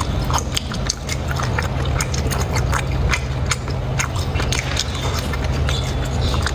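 Close-miked eating sounds: irregular wet clicks and smacks of chewing, several a second, over a steady low rumble.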